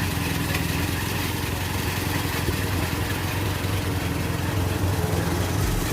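Toyota 7K four-cylinder engine idling steadily, with an even, fast pulsing beat.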